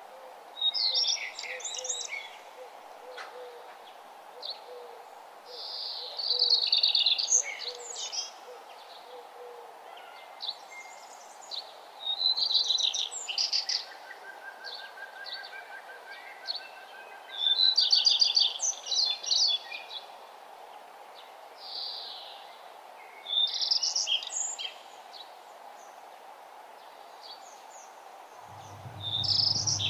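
Birdsong: short bursts of rapid high chirps and trills every few seconds, over a steady background hiss.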